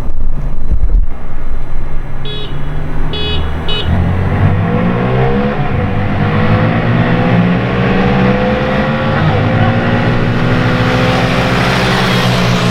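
An engine running steadily and then accelerating, its pitch climbing slowly and continuously for about eight seconds. Three short beeps sound about two to four seconds in.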